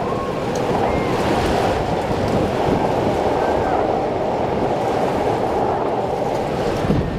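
Steady rushing noise of surf and wind.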